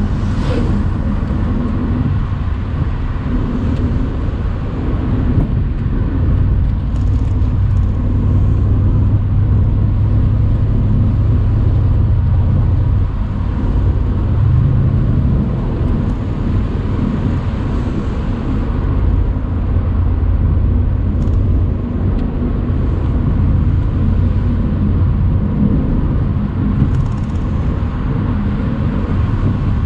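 Mercedes-AMG C63's twin-turbo 4.0-litre V8 running under way in an open-top convertible, a steady deep rumble that swells a little about a third of the way in, with tyre and wind noise.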